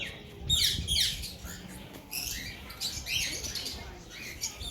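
Small birds chirping: many short, high, quickly falling chirps, overlapping and irregular.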